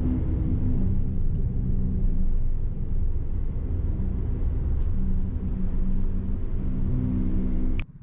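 A ferry's engine running with a steady low drone and hum.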